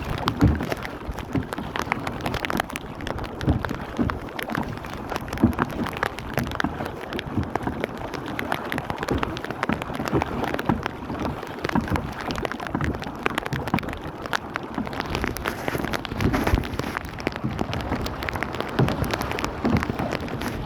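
Steady rain falling on water, a dense patter of many individual drops close by.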